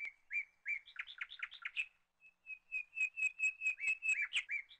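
A small bird chirping: short, high chirps at first, then a quicker run of repeated chirps in the second half, several a second, some with a quick upward flick.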